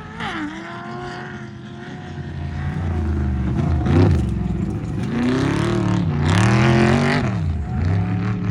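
Off-road race truck engine revving hard, its pitch climbing and dropping several times with the throttle, louder from about two and a half seconds in. Right at the start an engine note falls away as a vehicle passes.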